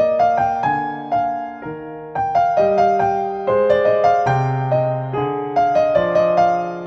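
Background piano music: a slow, gentle melody of struck notes over changing low chords.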